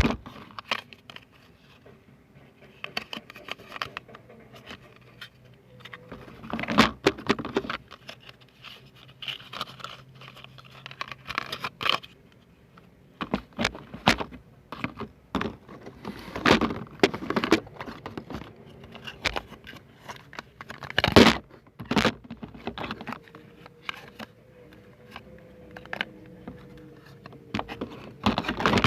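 ASMR handling sounds close to the microphone: irregular taps, scratches and rustles, with sharper clicks about seven and twenty-one seconds in.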